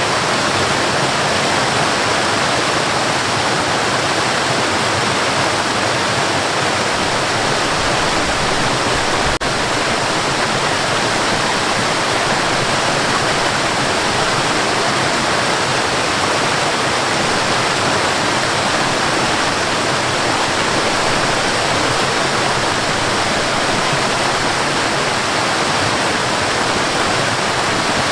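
Waterfall: a steady, unbroken rush of falling water, with one faint click about nine seconds in.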